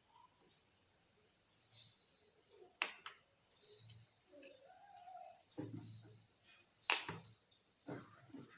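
Cricket chirping steadily in the background, a fast even high-pitched trill of about four to five pulses a second. Two sharp clicks cut through it, about 3 seconds and 7 seconds in.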